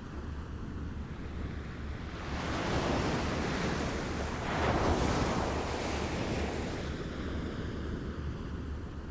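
Small waves lapping on a shore: a wash of water swells about two seconds in, peaks around the middle, and eases off toward the end, over a steady low rumble.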